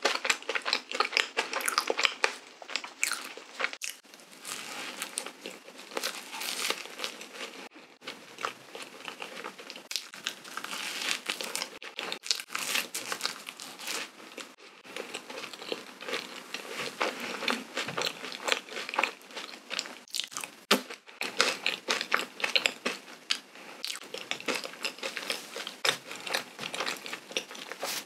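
Close-miked chewing of a soft cream-filled donut: wet, sticky mouth sounds full of small irregular clicks, broken by a few short pauses.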